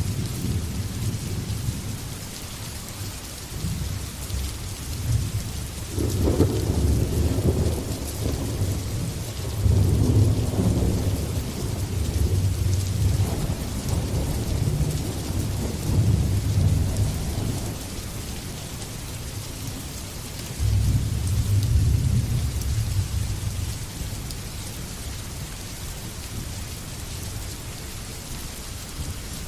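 Steady heavy rain hissing, with thunder rumbling and rolling again and again underneath. The strongest rolls come about six, ten and twenty-one seconds in.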